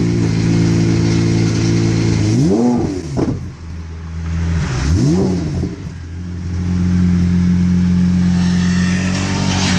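Pagani Zonda's Mercedes-AMG V12 running at low speed, blipped twice in quick revs about two and a half and five seconds in, each rising and falling back, then running steadily again.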